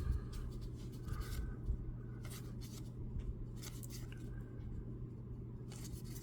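Baseball trading cards being handled and flipped through: short, scattered slides and flicks of card on card every second or so, over a steady low hum.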